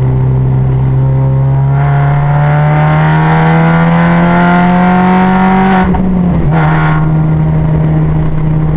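Mini's engine pulling under acceleration on track, its pitch climbing steadily for about six seconds, then dropping briefly at a gear change and running steadily after.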